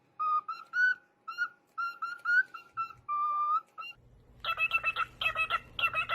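A parrot whistling a short tune in clear, pure notes. About four seconds in, a different clip cuts in: a bird giving rapid, repeated calls over a steady low hum.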